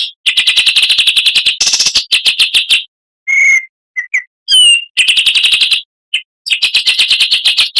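Oriental magpie-robin (kacer) singing a fast rattling chatter of about ten notes a second, in several runs. The runs are broken by short clear whistles, one of them falling in pitch, and by abrupt gaps.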